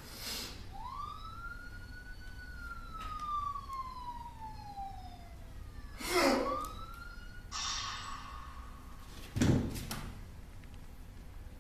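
Police siren wailing in long slow sweeps, each rising quickly and then falling slowly. A few knocks and a short hiss cut in over it; the loudest is a thump about nine and a half seconds in.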